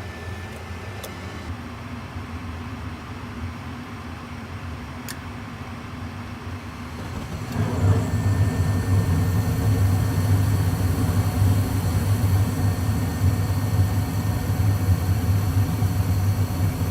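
Gas furnace running with a steady low motor hum; about seven and a half seconds in it gets much louder, a steady rush over a strong hum, as the furnace fires up after the flame sensor and gas valve repair.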